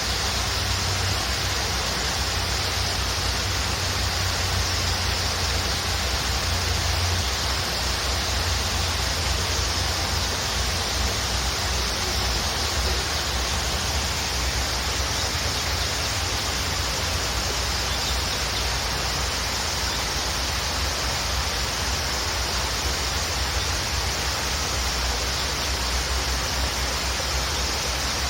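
Waterfall rushing steadily, a constant roar of falling water with a deep low rumble underneath.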